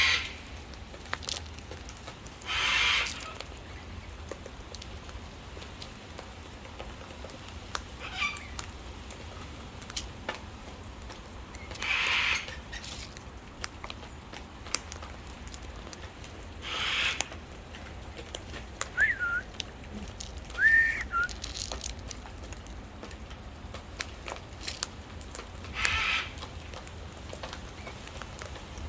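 Wild parrots calling: four harsh screeches spaced several seconds apart, and two short whistled notes a little past halfway.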